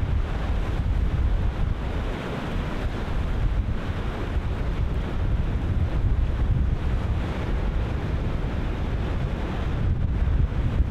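Ocean surf breaking continuously, with strong wind buffeting the microphone in gusts.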